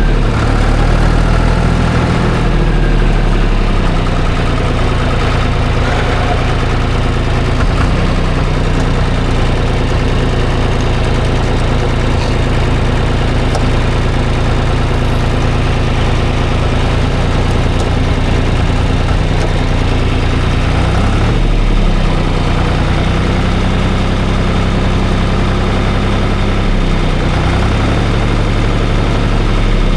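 Farm tractor engine running steadily at close range, its note shifting briefly about two-thirds of the way through and again near the end.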